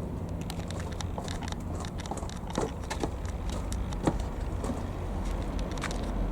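Steady low drone of a distant light aircraft's single piston engine, with scattered sharp clicks and crackles over it, the loudest about two and a half and four seconds in.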